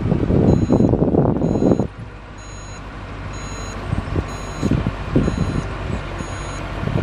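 Dump truck backing up: its reverse alarm beeps about twice a second over the rumble of its engine, which is loudest for the first couple of seconds and then comes back in pulses.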